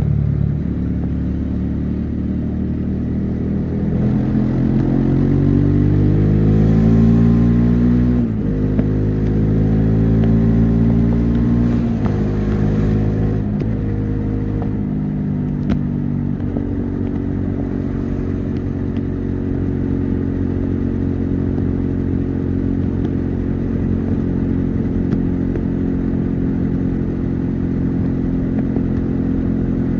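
Bajaj Dominar 400's single-cylinder engine and exhaust pulling hard, the note climbing in pitch for several seconds and dropping sharply at an upshift about eight seconds in. It climbs again to another upshift a few seconds later, then settles into a steady cruising note for the second half.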